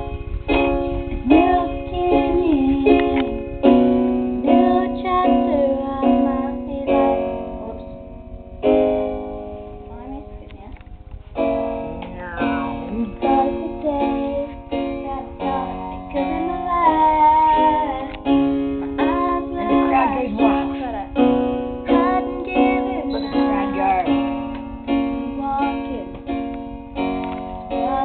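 Music: chords on a plucked string instrument with a woman's voice singing a wavering melody over them.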